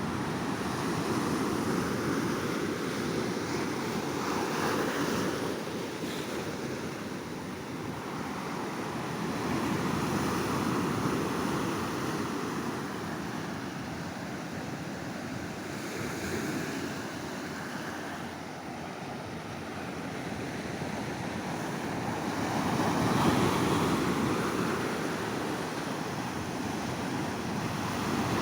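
Ocean waves breaking and washing up on a beach, the surf swelling and easing every several seconds.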